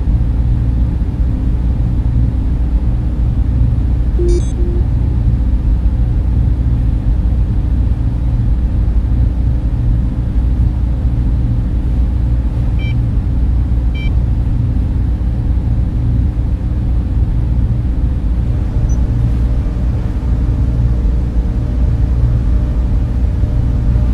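Steady low drone of a data centre's server fans and cooling equipment, with faint short high blips about four seconds in and twice more around thirteen and fourteen seconds in.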